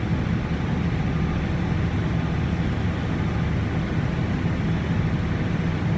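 Tractor engine running steadily, a low, even drone with no change in pace.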